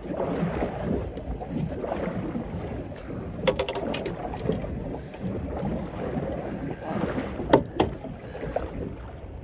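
Wind and water around a small boat, with a few sharp knocks and clicks from fishing gear being handled; the loudest knock comes about seven and a half seconds in.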